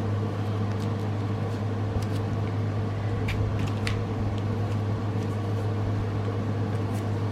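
Steady low hum with a few faint, short clicks from handling.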